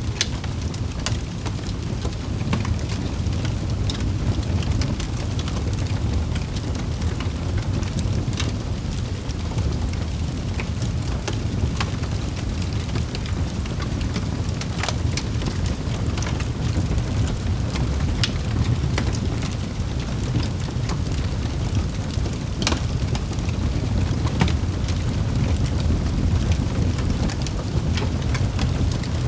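Wood fire burning in a fireplace: a steady low rumble with irregular sharp crackles and pops scattered through it.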